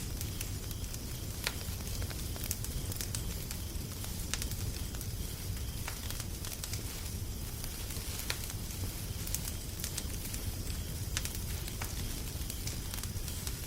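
Wood fire crackling, with sharp pops at irregular intervals over a steady low rumble and hiss.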